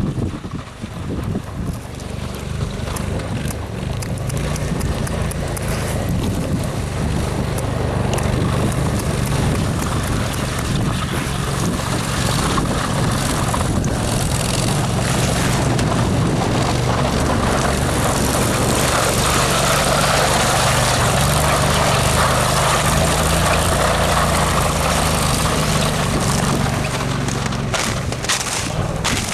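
A motor vehicle's engine running at a steady speed, with wind and travel noise that builds up past the middle.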